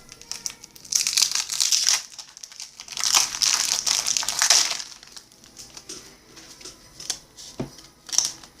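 Crinkling of a baseball-card pack wrapper being opened and handled, in two bursts: a short one about a second in and a longer one about three seconds in, followed by a few light clicks.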